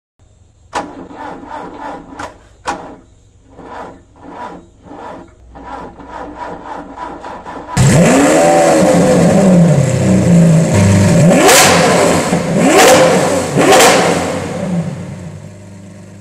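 A rhythmic series of engine-like pulses over a low hum, then a car engine suddenly revving loudly about halfway through, its pitch sweeping up and down with three sharp peaks before it fades near the end.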